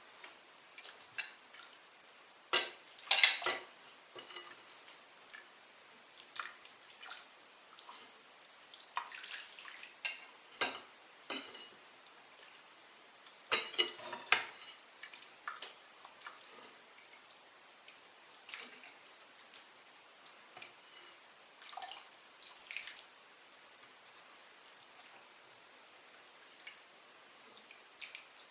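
Dishes and cutlery clinking and clattering in irregular bursts, the loudest clusters about three seconds and fourteen seconds in.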